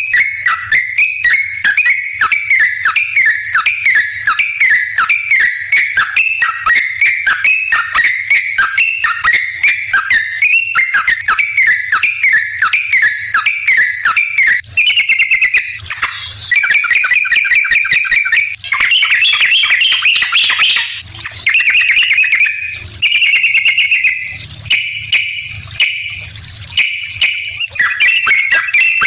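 Yellow-vented bulbul (trucukan) singing: a fast, unbroken run of short chirping notes. About halfway through it changes to denser chattering phrases.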